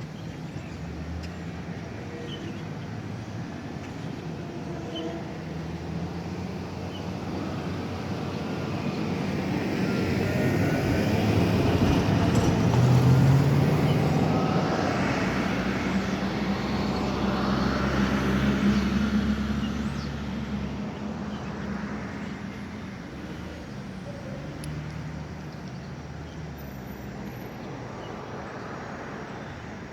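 A motor vehicle passing by: a low engine hum and noise that grow louder over about ten seconds, peak about 13 seconds in and again near 19 seconds, then slowly fade away.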